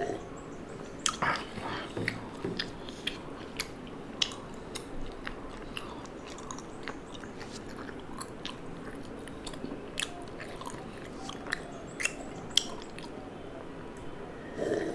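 A person eating, close to the microphone: crunchy bites and chewing, with many short sharp crunch clicks scattered throughout.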